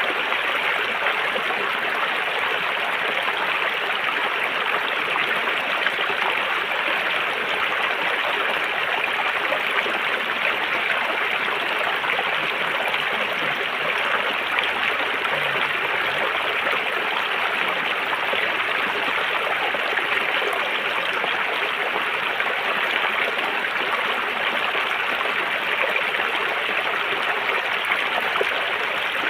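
River water flowing over stones in a steady, even rush with no breaks or changes.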